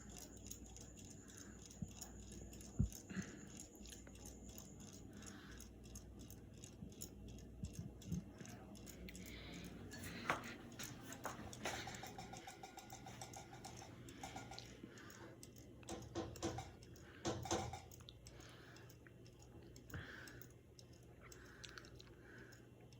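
Harbor Breeze Builder's Best ceiling fan running, a faint steady hum with light clicks and ticks scattered through it, a few louder clusters of clicks in the middle.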